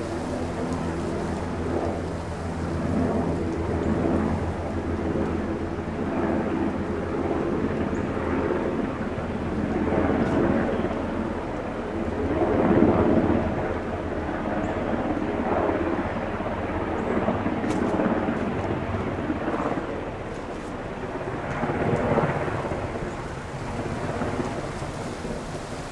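Unseen aircraft overhead: a continuous low engine rumble with a steady hum under it, swelling and fading every few seconds.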